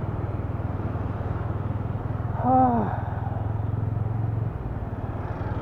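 TVS Ronin motorcycle's single-cylinder engine and exhaust running steadily under way, picked up by a microphone inside the rider's helmet; the engine note drops about four and a half seconds in. Near the middle the rider makes a short hummed vocal sound.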